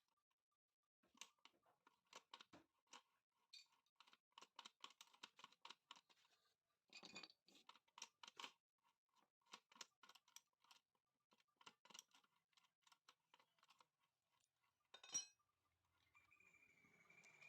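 Faint, irregular clicking and light metallic tapping, small engine parts and hand tools being handled during assembly, with one sharper click near the end.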